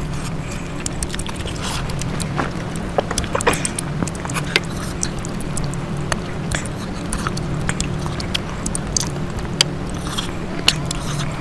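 Close-miked eating: a person chewing and biting food, heard as many short irregular clicks and smacks over a steady low hum.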